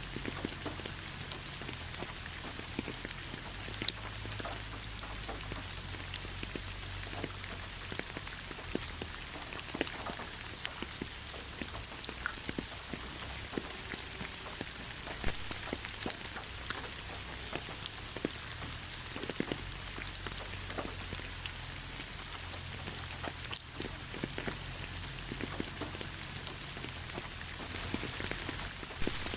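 Steady rain falling, with many separate drops ticking on a surface over an even hiss and a low rumble underneath.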